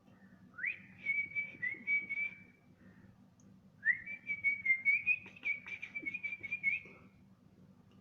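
Two long warbling whistles, each sliding up and then held at one high pitch with a quick pulsing flutter, the second longer than the first.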